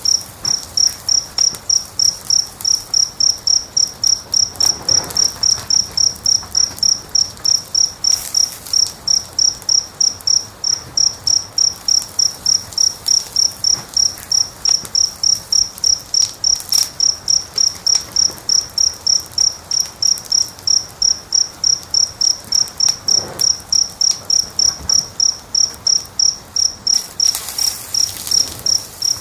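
An insect chirping steadily at one high pitch, about three chirps a second, over the faint hiss and occasional snaps of a crackling fire.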